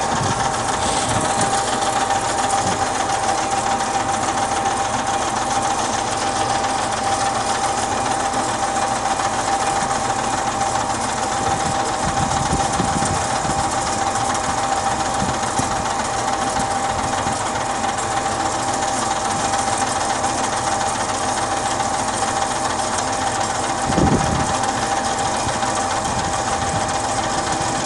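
Startrite H225W three-phase bandsaw running steadily with a constant whine while its saw frame feeds slowly down. A short low bump comes about 24 seconds in.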